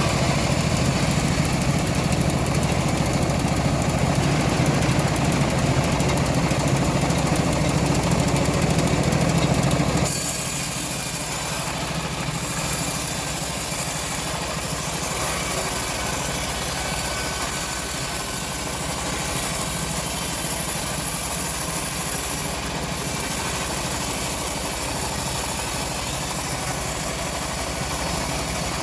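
A locally assembled bandsaw sawmill running steadily. About ten seconds in, the deep low hum drops away and the machine noise goes on lighter and higher.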